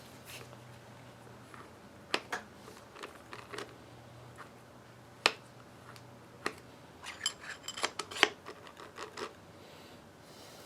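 Metal parts of a torn-down winch being handled: scattered sharp clicks and light clinks, with a quick run of ticks about seven to eight seconds in.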